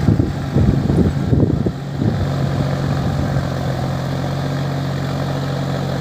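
John Deere 5105 tractor's three-cylinder diesel engine idling steadily, with irregular low thumps over the first two seconds.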